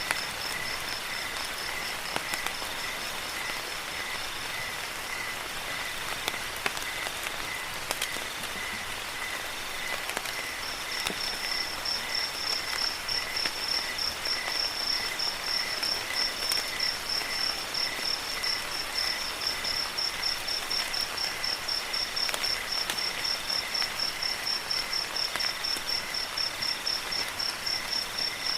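Crickets chirping in rapid, regular pulses over the steady hiss of falling rain, with scattered drip clicks; the highest chirping gets louder about ten seconds in.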